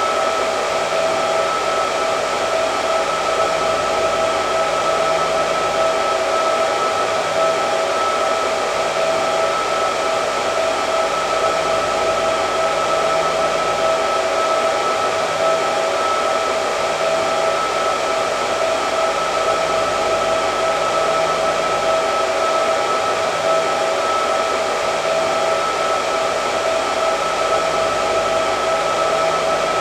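Hair dryer running continuously at a steady speed: an even rushing of air with a steady motor whine that does not change.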